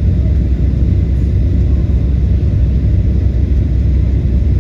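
Passenger airliner cabin noise in flight: a loud, steady low rumble of engines and airflow.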